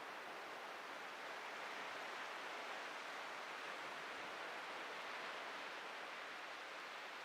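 Ocean surf washing onto a beach: a steady hiss that swells gently and eases off near the end.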